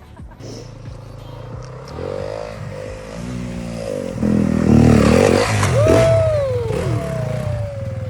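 Dirt bike engine revving up and down while riding, growing louder towards the middle and then easing off.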